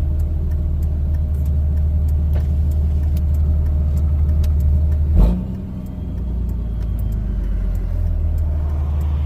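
5.9 Cummins diesel engine running steadily under way. About five seconds in there is a sharp knock, then the engine note drops for a couple of seconds before building again.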